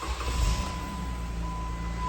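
2012 Jeep Wrangler's 3.6-litre V6 just caught on a cold start, flaring about half a second in and settling into a fast idle. A steady high electronic warning tone from the dash sounds over it.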